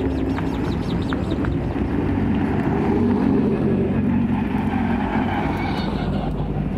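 Rally car engines running as several cars drive past one after another at moderate revs, a Peugeot 205 passing close by near the start. A few short clicks come in the first second or so.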